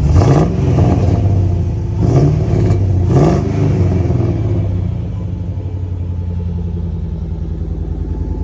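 Chevrolet 5.3-litre Gen 4 LS V8 (LC9, from a 2012 Silverado) blipped three times, rising and falling quickly each time, then settling back to a steady idle.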